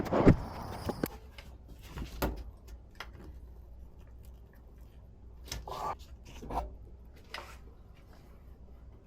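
Scattered knocks and clicks with a few brief rustles, as of things being handled; loudest in the first second, then sparse and quieter.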